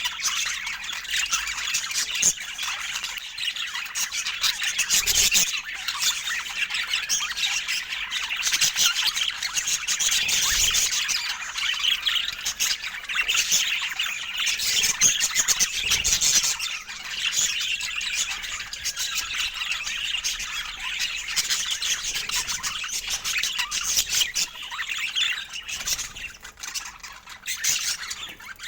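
Budgerigars chattering continuously, a dense mix of overlapping high chirps, warbles and squawks from several birds.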